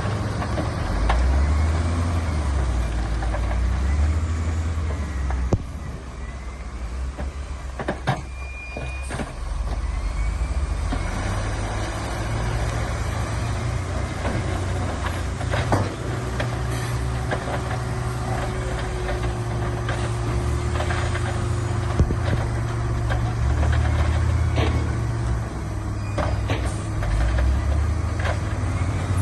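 Diesel engines of heavy earthmoving machinery running steadily with a deep rumble, with a few sharp knocks here and there.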